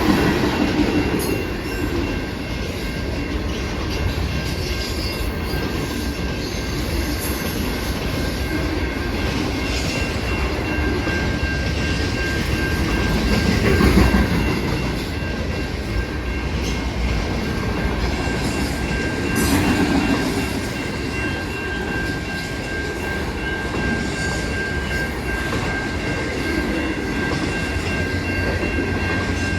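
A train rolling past, wheels clicking over the rail joints, with thin steady high whining tones over the rumble.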